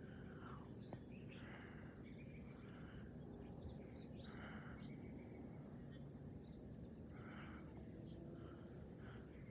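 Faint bird calls: a short, harsh call repeats every one to three seconds, with thin high chirps between them. Under them runs a faint, steady low rumble from a jet airliner passing high overhead.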